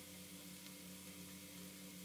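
Faint, steady sizzling of chopped mushrooms and onions frying in butter and oil in a pan, with a faint tick or two, over a low steady hum.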